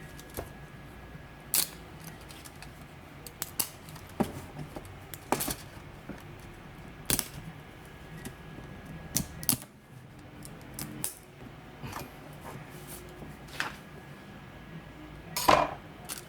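Hard plastic clicking and clacking at irregular intervals, about a dozen sharp clicks with the loudest near the end, from a 3D-printed articulated skull toy being moved and handled. A faint steady hum lies underneath.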